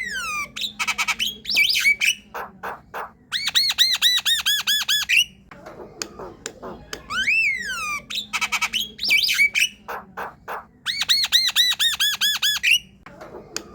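Javan myna singing: a rising-and-falling whistle, rapid clicking chatter, then a fast run of about ten repeated ringing notes. The whole phrase comes twice, about seven and a half seconds apart.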